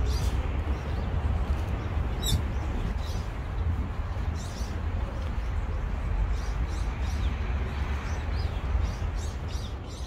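Small birds chirping in the trees: short high calls scattered throughout, with a quick run of falling chirps about two seconds in. Under them runs a steady low rumble.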